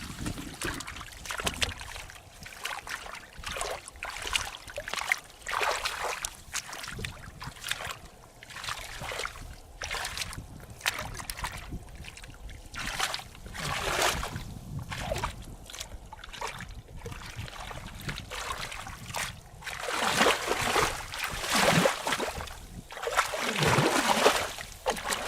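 Irregular splashing and sloshing of shallow water, louder in the last few seconds.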